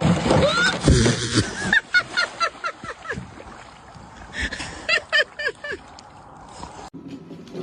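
An animal calling in quick runs of short calls that drop in pitch, about four a second: a run of about eight calls, then after a pause a run of four.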